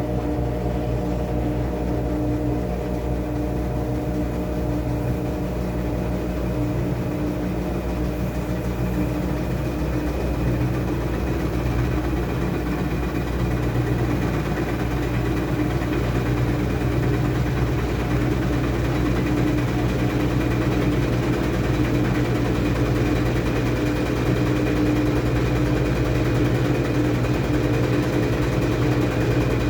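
Washing machine running with a steady motor hum and low rumble, growing slightly louder about halfway through.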